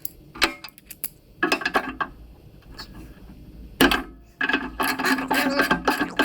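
Hand tools working on the garden tractor's metal parts: scattered clicks and scrapes, then from about four and a half seconds in a fast, even run of clicking with a steady tone under it.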